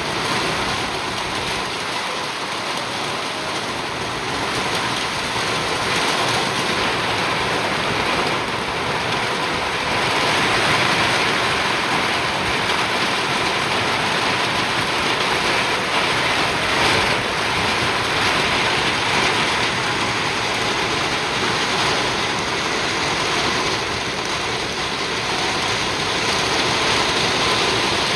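Steady rain falling, an even hiss of drops that swells slightly in the middle.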